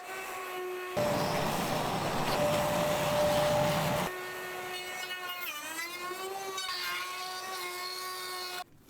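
Electric power saw running with a steady whine, cutting through a board for about three seconds with a loud rushing noise, then spinning free again. Its pitch dips briefly and recovers midway, and the sound cuts off abruptly near the end.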